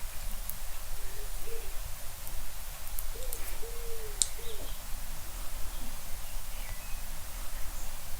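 A bird cooing faintly: a few short curved calls in the first half, over a steady low hum. There are a couple of faint clicks.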